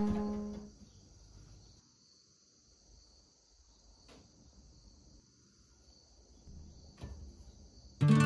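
Background music fading out, then a faint steady high hiss with two soft clicks, and the music starting again near the end.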